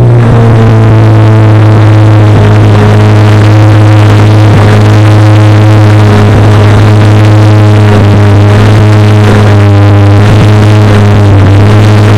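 The 5.5-litre flat-plane-crank V8 of a 2023 Chevrolet Corvette C8 Z06 idling high and steady through its exhaust just after starting. It is very loud, near the top of the camera microphone's range.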